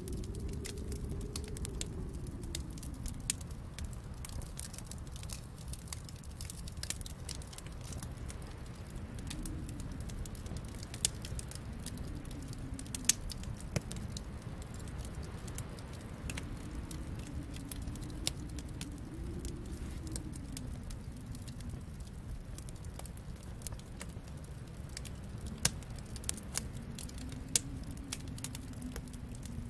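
Wood fire crackling in a fireplace: scattered sharp clicks and a few louder pops over a steady low rumble.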